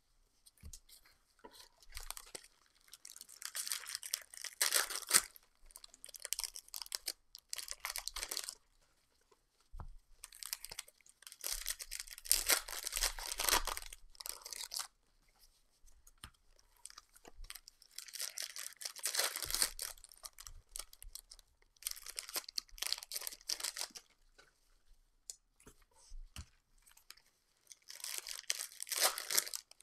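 Foil trading-card pack wrappers being torn open and crinkled by hand. The crackling comes in bursts a few seconds long, with short pauses between.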